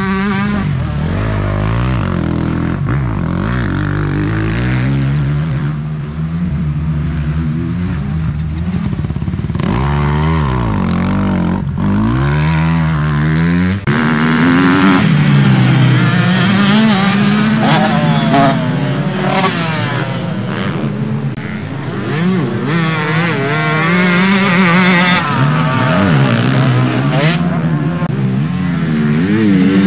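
Motocross bikes racing, their engines revving up and down as they ride the track, several overlapping. The sound changes abruptly about halfway through and is louder after that.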